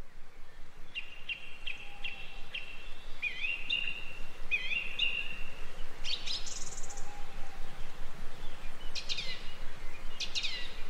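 Birds singing and calling over a steady background hiss, fading in over the first few seconds: repeated short whistled notes, a quick high trill a little past halfway, and falling sweeping calls near the end.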